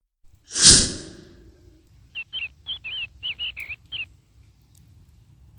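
A sudden loud burst of noise about half a second in, fading over a second. It is followed by a small bird chirping in a quick run of about eight short, pitch-bending notes, over a faint low rumble.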